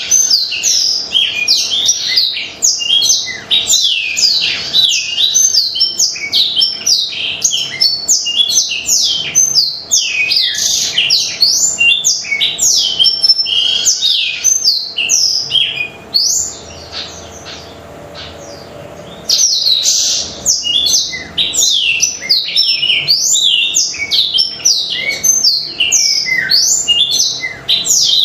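Black-throated canary (blackthroat) in full, continuous song, a fast run of high twittering and trilled notes. It breaks off for about three seconds a little past the middle, then starts again.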